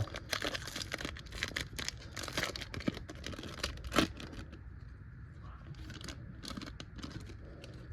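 A trading-card pack wrapper being torn open and crinkled, a dense crackling for the first few seconds, then occasional light clicks and rustles as the cards are handled, with one sharper click about four seconds in.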